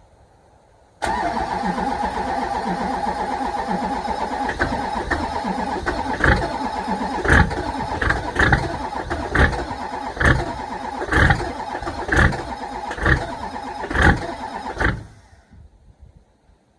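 LB7 Duramax 6.6 L V8 diesel cranking on its starter in a cold start at −18 °C without the block heater plugged in. From about five seconds in, loud uneven bangs come roughly once a second as single cylinders fire without the engine catching. The sound stops about fifteen seconds in.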